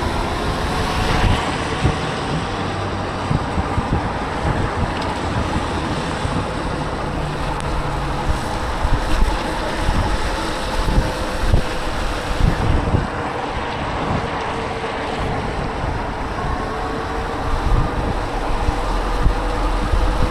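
Wind buffeting a microphone that has no wind guard while riding a bicycle, a steady rush with uneven low gusts. A faint whine slowly rises and falls underneath.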